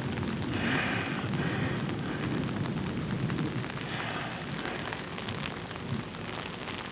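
Steady rain falling during a thunderstorm, with a low rumble of distant thunder that fades out about halfway through.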